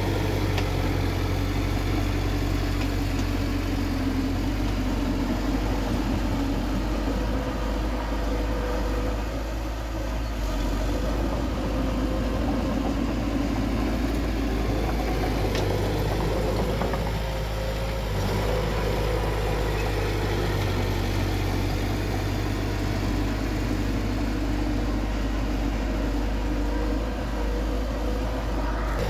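Heavy earthmoving machine's diesel engine running steadily, with only small dips in level.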